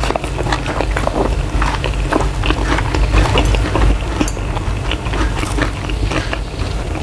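Close-miked chewing of a mouthful of spicy stir-fried shrimp, mussels and rice: a dense, irregular run of small mouth clicks and smacks.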